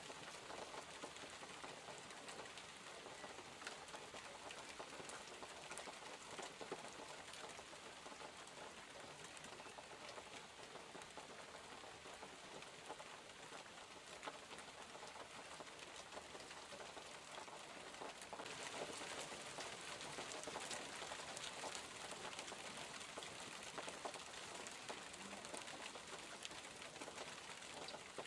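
Steady rain falling, an even hiss with many small drop ticks. It grows louder and heavier about two-thirds of the way through.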